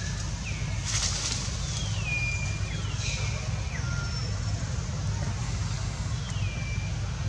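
Birds calling: several short whistled notes that slide down in pitch and then hold, over a steady low rumble, with a brief noisy rush about a second in.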